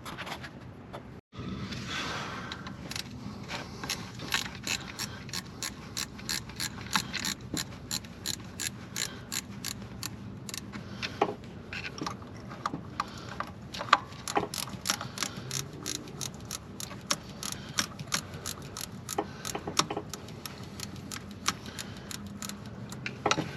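Ratchet wrench clicking in a long run of sharp clicks, a few a second, as 10 mm bolts holding a coolant hose are undone.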